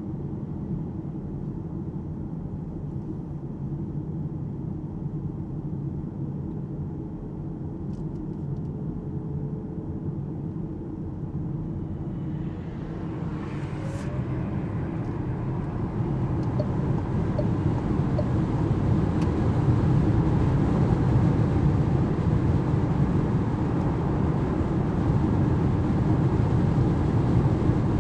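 Tyre and wind noise heard inside the cabin of an Alpine A390 GT electric car on the move. A steady low rumble grows louder and brighter about halfway through as the car gathers speed.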